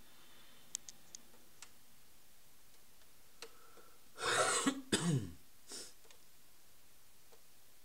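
A person clearing their throat with a cough, about four seconds in, ending in a short falling grunt. A few faint clicks come before it.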